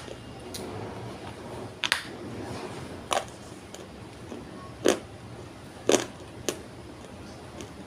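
Dry multani mitti (fuller's earth) clay being crunched, giving a handful of sharp cracks and snaps spaced about a second apart.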